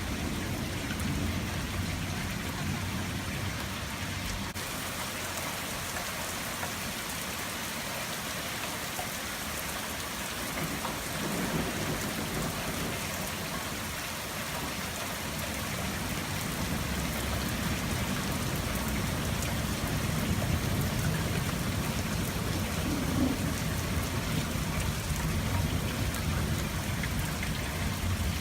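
Steady rain falling and pattering on surfaces, with thunder rumbling low in the first few seconds and again building through the second half.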